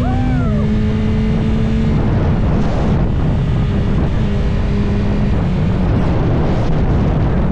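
BMW S1000RR inline-four sport bike being ridden at a steady pitch, nearly buried under heavy wind buffeting on the microphone. The engine note drops a little about half a second in and comes back clearly about four seconds in.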